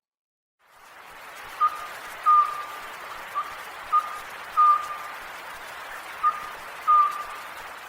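Oriental scops owl calling, a short whistled 'bu-ppō-sō' phrase of two or three notes at one pitch, repeated three times over a steady background hiss.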